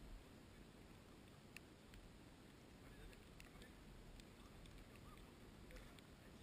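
Near silence: a faint low rumble with a few faint, scattered clicks.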